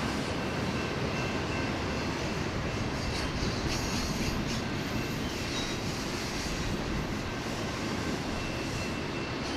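Freight train rolling past, a steady rumble of steel wheels on rail, with a faint high wheel squeal now and then.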